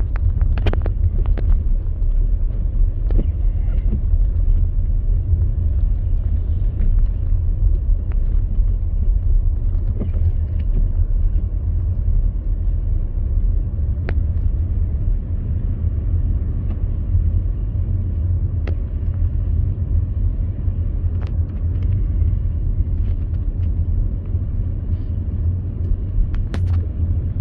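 Car driving on wet, slushy snow-covered road, heard from inside the cabin: a steady low rumble of engine and tyres, with a few faint clicks and knocks.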